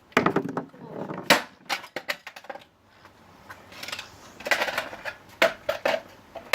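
A vacuum cleaner being smashed apart: a string of irregular sharp knocks and clatters of its casing and loose pieces, about ten blows in all, with a lull around the middle.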